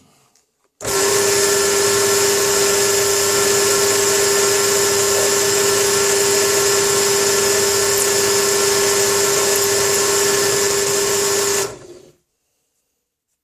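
Electric drill running at a steady speed while drilling holes in metal, starting about a second in and stopping sharply about eleven seconds later.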